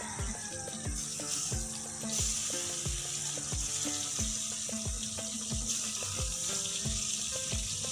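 Pieces of tomato-like fruit sizzling in hot oil in a steel wok. The frying gets louder about two seconds in. Background music with a steady beat plays throughout.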